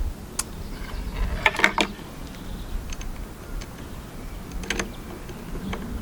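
A few small, sharp metallic clicks and taps as the glow plug is handled and threaded back into a K&B .40 model engine's cylinder head, with a cluster of clicks about a second and a half in, over a low rumble.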